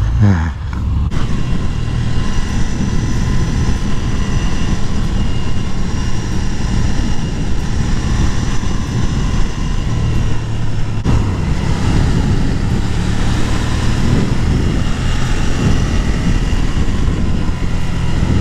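Ducati Scrambler motorcycle engine running under way, with wind noise on the microphone; the engine note changes abruptly about eleven seconds in.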